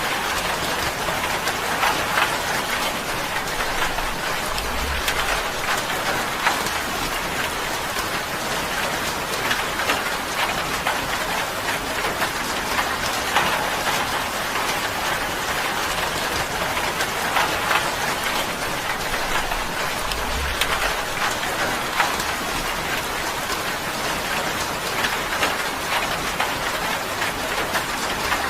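Steady rain falling on a tin roof: a constant hiss of rain with many sharp drop ticks against the metal.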